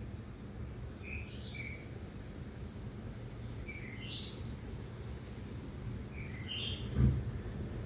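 A bird chirping in short paired notes every two to three seconds over a low steady rumble, with one dull thump near the end.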